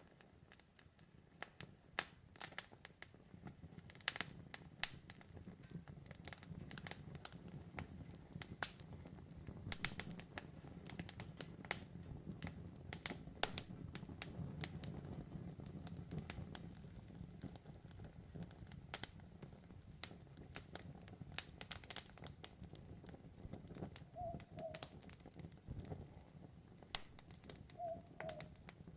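Wood campfire crackling, with many sharp pops and snaps over a steady low rustle of burning. Twice near the end an owl gives a short two-note call in the background.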